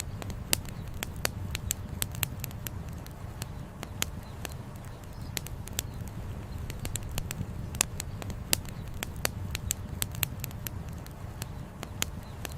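Campfire burning, the firewood crackling with many irregular sharp pops over a steady low rumble.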